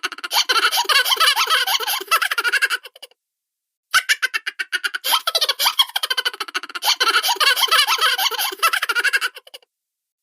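Cartoon-style laughter and chuckles: high, quick, choppy giggling in two runs, broken by a short silence about three seconds in and stopping shortly before the end, the same run of laughs repeated.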